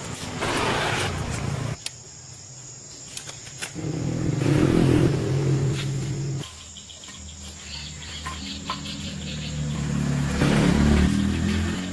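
An engine running in three surges, its pitch and loudness rising and falling, the last one building up to the loudest point near the end. A thin, steady high whine runs underneath.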